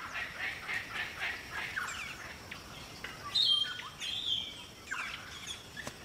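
Birds calling. A quick run of chirps fills the first half, then higher, drawn-out whistled notes follow, some sliding downward.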